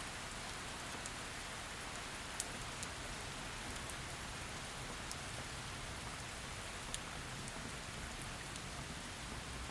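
Heavy rain falling steadily, a constant hiss with scattered sharper drops ticking on a surface, the clearest at about two and a half and seven seconds in.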